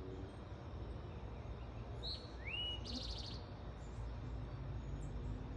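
A sparrow sings one short phrase about two seconds in: a brief high note, a rising whistle, then a quick trill. A steady low rumble runs underneath.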